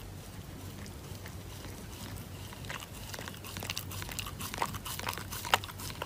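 A Shiba Inu biting and chewing on a paper cutout, the paper crackling and crunching. The crackles come thicker after a couple of seconds, with one sharp louder snap near the end.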